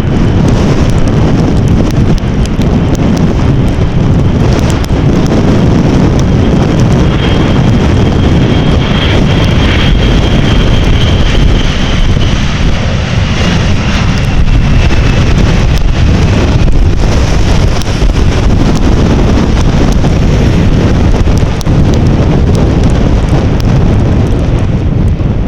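Strong wind buffeting the microphone, a heavy steady rumble, with a jet airliner passing. Its faint high engine whine falls slightly in pitch in the middle of the stretch.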